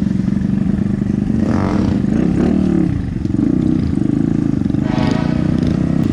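Motorcycle engine idling close by, a steady low running with a slight rise and fall in pitch about two to three seconds in. Faint voices in the background.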